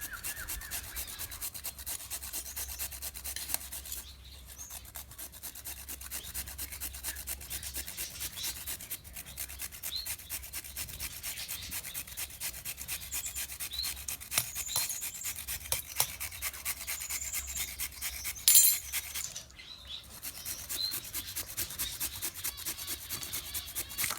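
A raw carrot being peeled by hand: quick, repeated scraping strokes of the blade along the carrot.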